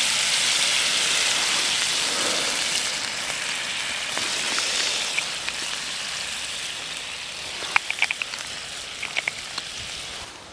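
Food frying in a pan over a campfire: a steady sizzling hiss that slowly dies down, with a handful of sharp pops and crackles in the last few seconds.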